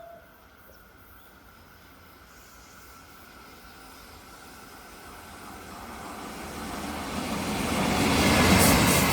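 A train approaching on the track, the noise of its wheels on the rails growing steadily louder over several seconds until it is close by near the end.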